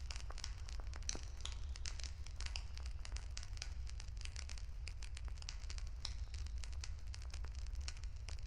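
Wood campfire crackling: a dense, irregular stream of sharp pops and snaps over a steady low rumble.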